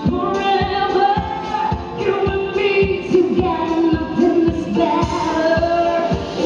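Live female vocalist singing a pop ballad with a traditional Malay orchestra, over a steady low drum beat of about two to three strokes a second.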